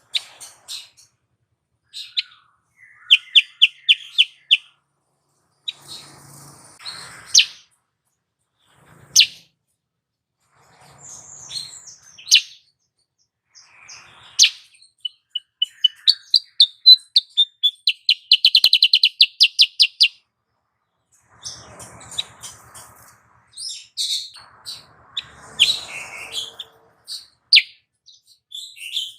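Female kutilang sutra songbird calling: sharp single chirps and short quick trills, with a long, fast rattling trill just past the middle. This is the female call used as a lure to stir male birds into song.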